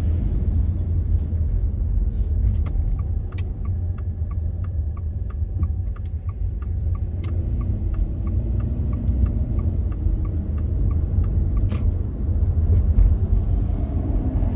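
Steady low road and engine rumble inside a moving car. For several seconds in the middle, a turn-signal indicator ticks evenly, about two to three clicks a second, then stops.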